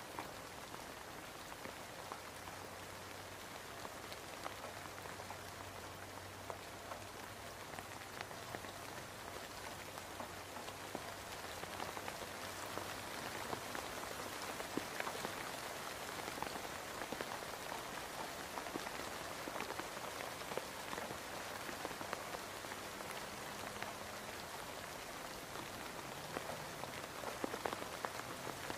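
Rain falling steadily, an even hiss made of many separate drop impacts, growing a little louder about halfway through.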